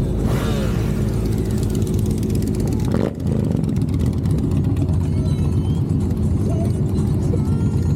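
Motorcycle engines running steadily, with a brief dip in level about three seconds in.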